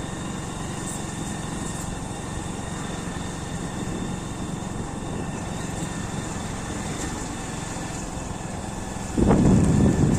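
Motorcycle engine running steadily while riding. About nine seconds in, a loud rush of wind buffeting the microphone sets in.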